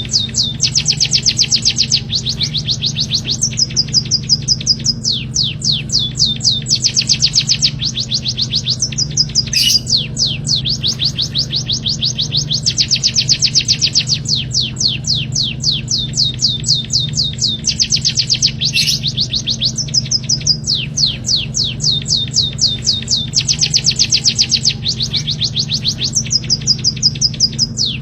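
Small songbird singing fast trills: rapid runs of repeated high notes in phrases of a second or two with short breaks, over and over. This is recorded bird song played as a masteran, a tutor track for teaching caged songbirds.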